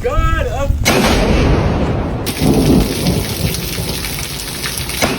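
Thunder rumbling under steady heavy rain, the rumble slowly dying away. A short warbling pitched sound is heard at the very start, before the thunder comes in.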